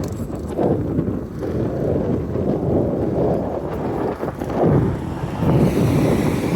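Wind buffeting the microphone in gusts, a heavy low rumble that swells and fades, as from riding into the wind.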